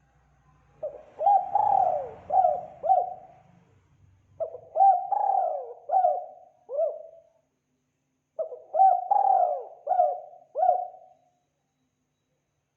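Spotted dove (tekukur) cooing in three phrases of about five quick coos each, about a second apart.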